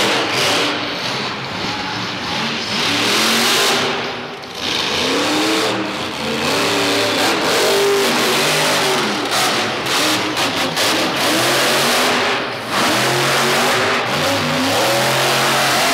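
Grave Digger monster truck's supercharged V8 engine revving hard, its pitch climbing and dropping again and again over a wash of noise, with a brief drop in level about four seconds in.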